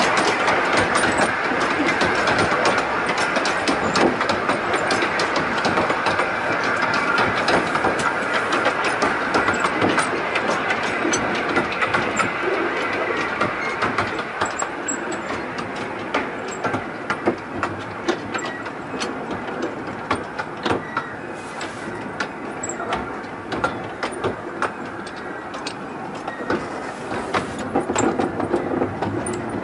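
Miniature railway passenger train running along the track, heard from an open carriage: a steady rumble and rattle of the coach wheels with many sharp clicks over the rails.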